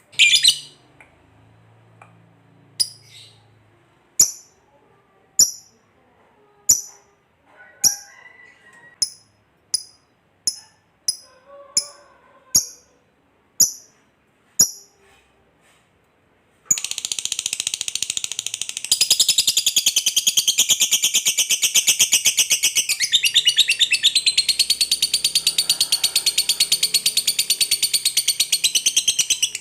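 Lovebird calling: a run of separate sharp, high chirps, about one or two a second. Then, about 17 seconds in, it breaks suddenly into a long, unbroken, rapid chattering trill, the 'ngekek panjang' that hobbyists prize.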